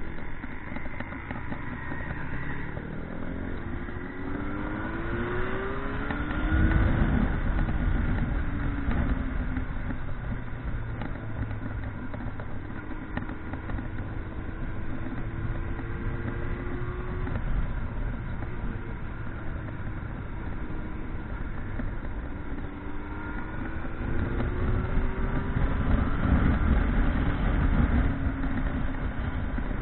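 Motorcycle engine running while riding, rising in pitch as it accelerates twice and holding steadier in between, loudest about seven seconds in and near the end.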